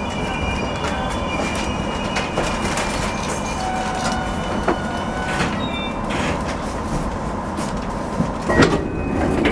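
Steady cab noise of a 205-series electric train, with faint high squeals in the first couple of seconds, scattered clicks, and a louder knock near the end.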